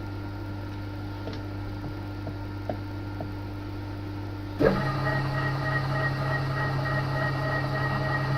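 TOS milling machine running with a steady hum; a little over halfway through there is a sharp clunk and the machine carries on louder, with a steady whining note over the hum.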